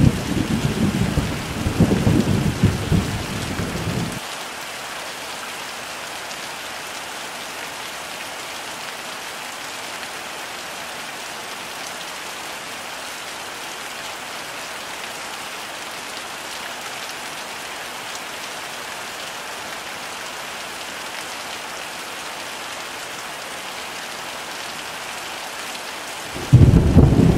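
Heavy rain falling as a steady hiss. A loud, low thunder rumble fills the first four seconds and cuts off abruptly. Thunder then starts again just as suddenly near the end.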